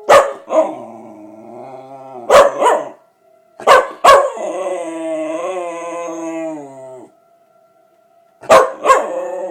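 Miniature schnauzer howling in response to a tornado siren: four howls, each opening with a sharp yelp. The longest lasts about three seconds with a wavering pitch.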